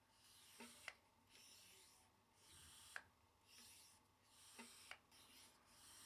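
BV GM71 mini bike pump being worked by hand: a steady rhythm of rasping, hissy strokes, about one a second, with a sharp click on some strokes.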